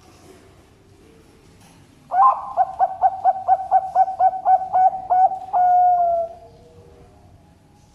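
Bangkok-type zebra dove (perkutut) cooing its song: a quick run of about a dozen short staccato notes, about four a second, ending in one longer held note that falls slightly in pitch.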